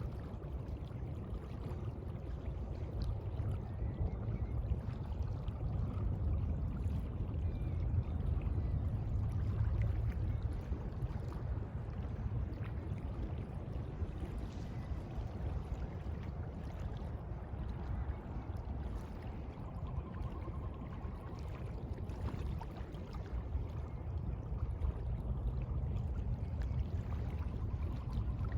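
Sea water washing, a steady wash without any tones that swells and eases slowly over several seconds.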